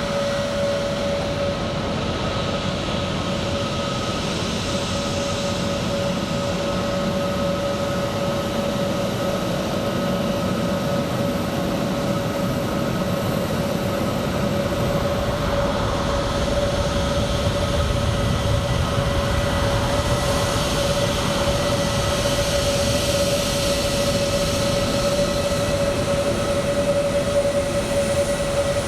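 Jet aircraft engines idling: a steady whine over a rumble that grows slightly louder in the second half.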